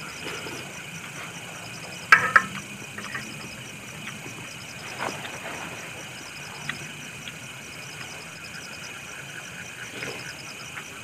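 Clinks and clicks of eating utensils during a meal: one sharp, ringing clink about two seconds in, then a few softer clicks, over a steady background hum.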